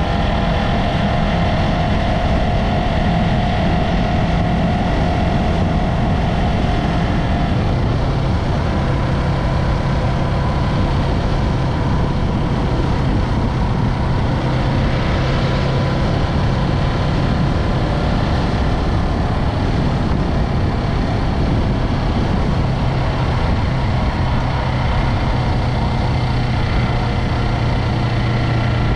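Yamaha MT-03's parallel-twin engine running steadily, its pitch dropping slightly about eight seconds in.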